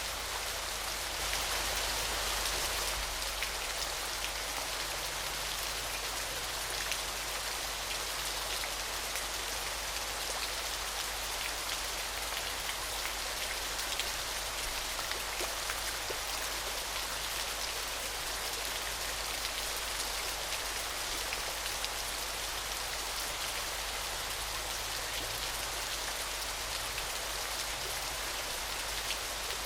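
Waterfall: falling water giving a steady, even hiss with fine spattering droplets throughout, swelling slightly a second or two in.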